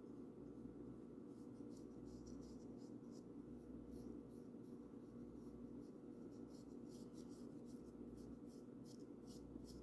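Paintbrush brushing paint onto a bird house: faint, short strokes, coming closer together in the second half, over a steady low hum.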